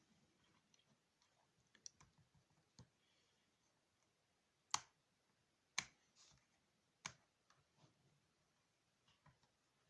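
Scattered light clicks and taps, with three sharper clicks roughly a second apart near the middle.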